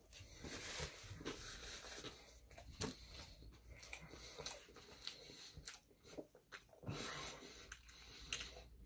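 Faint chewing and mouth sounds of someone eating sushi, with a few soft clicks and taps from chopsticks and plastic takeout trays.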